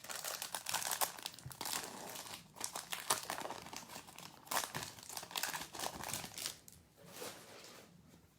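Trading card pack wrapper being torn open and crinkled by hand: irregular plastic crackling that tails off after about seven seconds.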